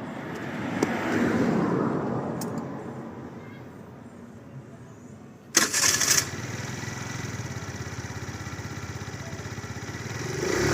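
Bull F5 Spirit 50cc scooter engine started cold: a short loud burst about halfway through as it is started and catches, then a steady idle with a fast, even pulse that begins to rise near the end.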